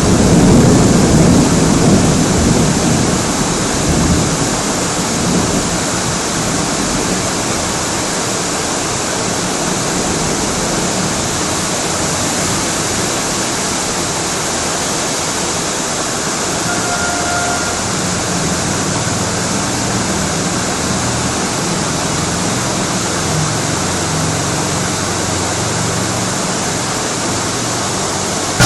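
Tropical storm wind and rain: a steady rushing noise, with a stronger gust rumbling over the first few seconds.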